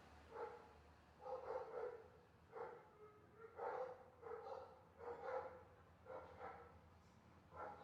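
A dog barking faintly and repeatedly, roughly one short bark a second.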